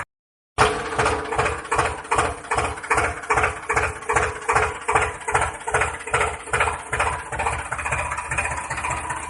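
Tractor engine idling with a steady chug, about three beats a second. It drops out briefly just after the start, then carries on evenly.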